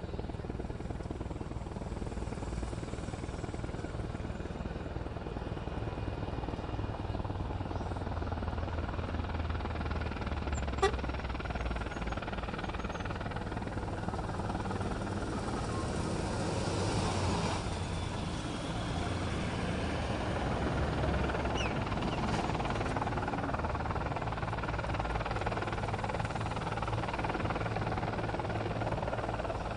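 Sikorsky CH-53 helicopter running steadily, a continuous low drone with a broad noisy hiss over it, getting a little louder past the middle. A single sharp click sounds about eleven seconds in.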